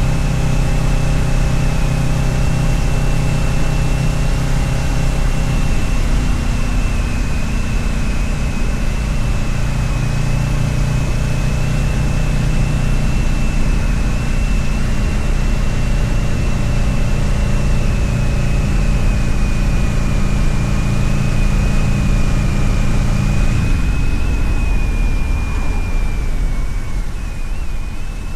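Kawasaki Ninja 650R's parallel-twin engine running steadily under way, with wind and road noise over it. The engine note shifts once about six seconds in and falls away a few seconds before the end.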